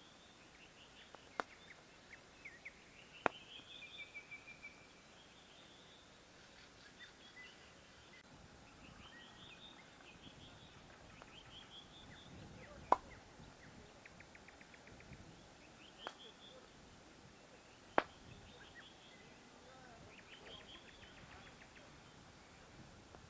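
A songbird singing varied phrases of trills and quick repeated notes, over and over, with about five sharp pops from a small campfire scattered among them.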